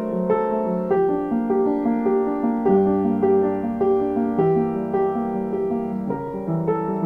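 Piano music: a flowing line of notes over a bass that changes every couple of seconds.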